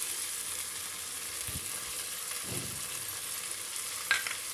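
Onion-tomato masala sizzling steadily as it fries in a pressure cooker, with a few soft thumps and one sharp click about four seconds in, as ginger-garlic paste is added.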